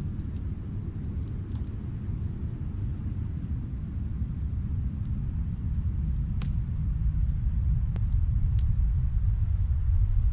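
Wood fire crackling in a fireplace: a few sparse, sharp pops over a low, steady rumble that slowly grows louder.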